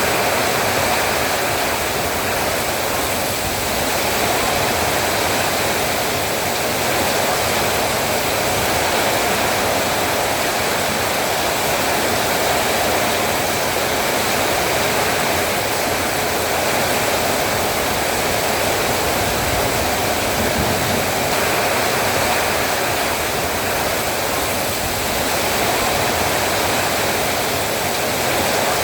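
Heavy rain pouring steadily, an even rushing noise with no breaks, swelling slightly now and then.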